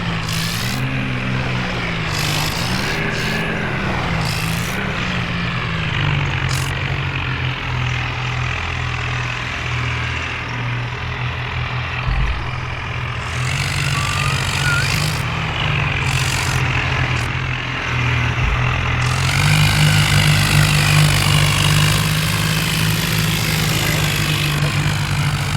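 Diesel engines of a tractor and a truck running hard under load in a tug-of-war pull. The revs rise and fall over the first few seconds, then hold steady. The sound grows louder about 19 seconds in.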